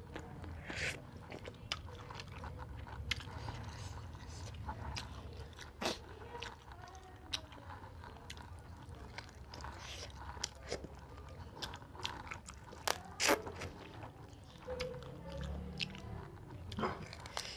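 Close-up eating sounds: a person biting and chewing pieces of chicken, with many short, sharp crunches scattered irregularly, the loudest two coming close together about three-quarters of the way through.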